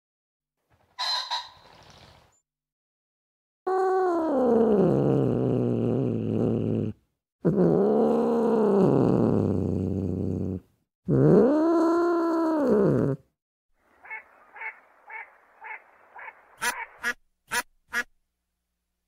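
Animal calls: three long, drawn-out pitched calls of a few seconds each, the first falling and the next two rising then falling, followed by a run of short calls about four a second and a few sharp clicks near the end.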